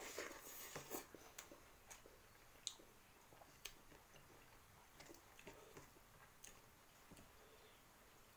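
Faint close-up chewing of a mouthful of rice and egg-fried Maggi noodles eaten by hand, with wet mouth smacks and small clicks, busiest in the first second.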